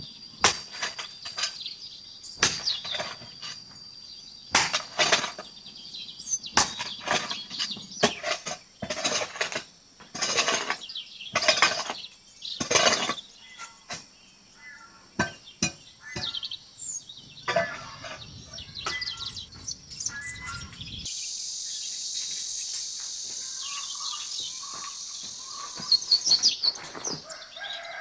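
Irregular knocks and scraping from hand work, over a steady high cricket trill. About two-thirds of the way through, the sound changes abruptly to a steady insect drone with birds chirping.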